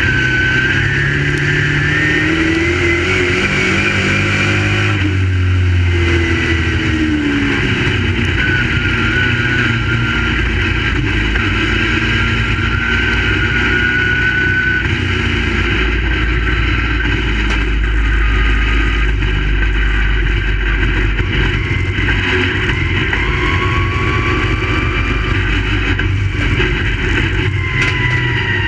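Crate Late Model race cars' V8 engines running on a dirt oval, several at once, their pitch rising and falling as they accelerate down the straights and lift into the turns.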